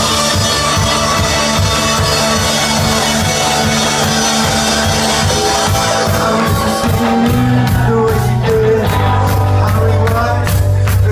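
Live rock band playing the opening of a song, with the drum beat and bass coming through more strongly about seven seconds in.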